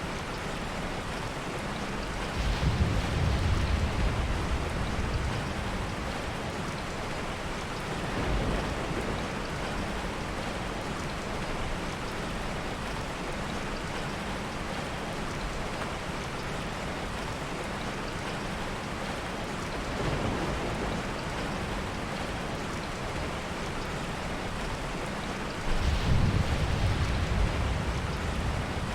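Steady heavy rain with low rolls of soft thunder: the strongest a few seconds in and again near the end, with two fainter rumbles between.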